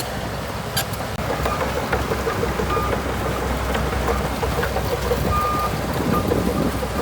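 Bulldozer's diesel engine running steadily under work, with scattered clicks and rattles, and a short high beep twice.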